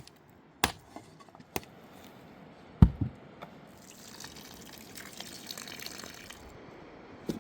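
A few sharp knocks and one heavy thud, then water running for about two and a half seconds.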